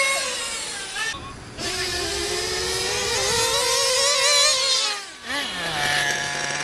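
Radio-controlled car motor running at high pitch and changing speed with the throttle: its pitch falls, wavers up and down, breaks off about a second in and again around five seconds, then sits low before climbing near the end.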